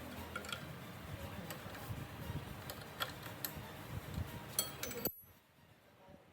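Light metallic clinks and clicks of tools or metal parts being handled, over a steady background noise that cuts off abruptly about five seconds in.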